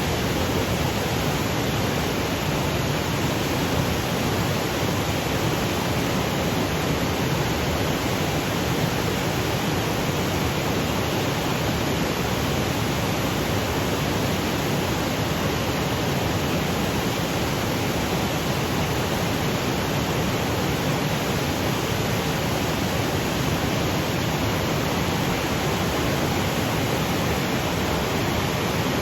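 Waterfall cascading over granite boulders: a steady, even noise with no breaks or changes.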